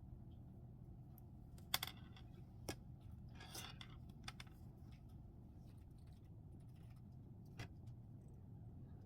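Faint room hum with a few scattered light clicks and taps of knitting needles as ribbing is knitted.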